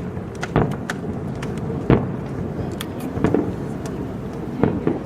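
Fireworks going off: a string of irregular sharp bangs and crackles, the loudest about two seconds in.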